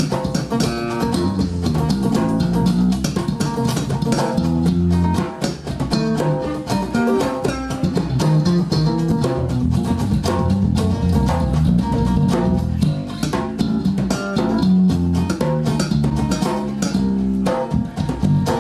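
Blues band playing an instrumental passage of a slow blues: guitar and bass over a steady drum and percussion beat.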